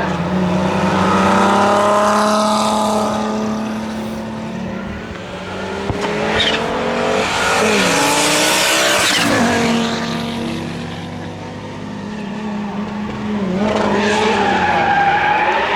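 Rally cars driving hard at speed, engines revving up and dropping through gear changes. The sound swells loudest about a second in, again around eight to nine seconds in, and once more near the end.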